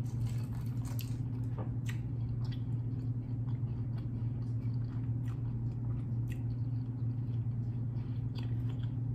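A man chewing a mouthful of food with his mouth closed, with short wet mouth clicks and smacks scattered throughout, over a steady low hum.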